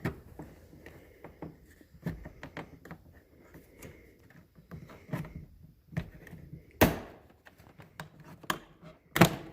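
Hand tools and small parts clicking and knocking as they are handled, with two louder sharp sounds about seven and nine seconds in.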